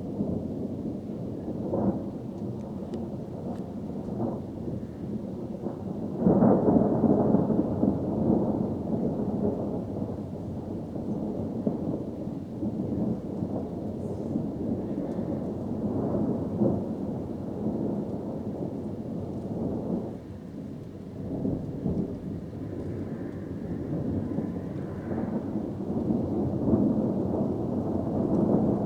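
Thunder rumbling almost without pause from a storm with frequent lightning, swelling into louder rolls several times; the loudest comes about six seconds in.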